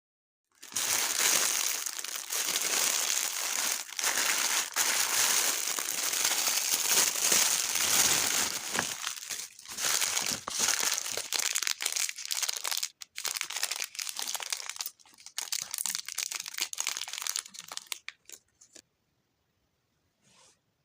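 Toy packaging crinkling as it is unwrapped by hand. It starts as a dense, continuous crinkle, turns into scattered crackles after about nine seconds, and stops about eighteen seconds in.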